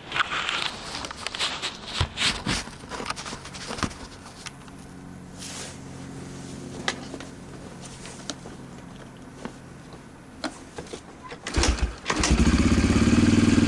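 A 2005 Yamaha TTR125L dirt bike's single-cylinder four-stroke being kick-started from cold. Clicks and knocks from the kickstarter come first, then near the end the engine catches on the second kick and runs loudly and steadily.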